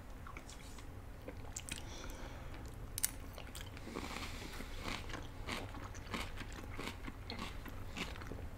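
Close-miked eating sounds: chewing of chewy boba tapioca pearls and poke bowl, with wet mouth clicks and smacks. One sharp click about three seconds in, and the chewing grows busier about halfway through.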